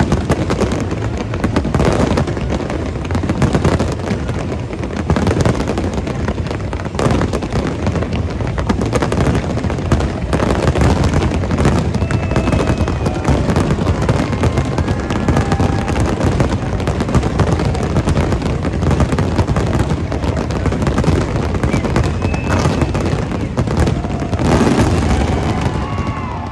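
Dense, continuous barrage of firework bursts: rapid overlapping bangs and crackle, easing off just before the end.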